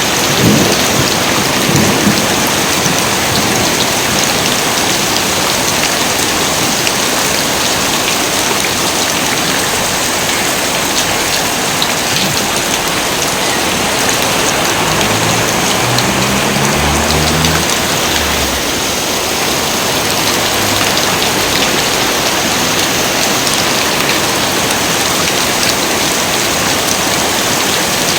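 Heavy rain pouring steadily, with the last of a thunder rumble dying away in the first couple of seconds.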